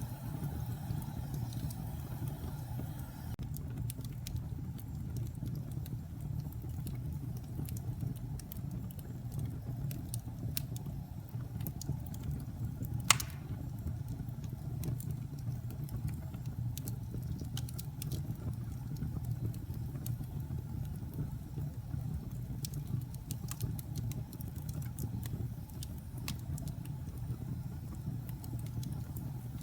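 Wood fire burning in a fireplace: a steady low rumble of flames with scattered small crackles and one sharp, loud pop about halfway through.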